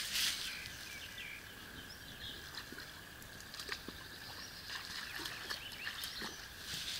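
Outdoor rural ambience with faint, scattered bird chirps and a few soft clicks, and a brief rush of noise right at the start.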